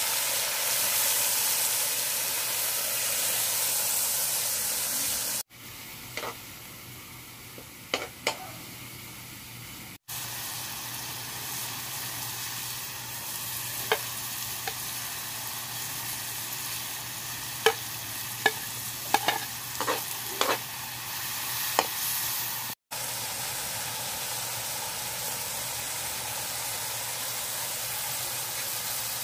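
Chicken livers and marinade sizzling in a metal wok over a wood fire, the hiss loudest in the first few seconds as the marinade goes in. Short clinks and scrapes of a metal ladle against the wok come now and then, most of them in the middle.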